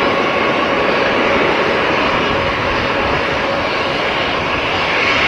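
Jet airliner's engines, a loud steady rush with a faint whine running through it, growing a little brighter near the end.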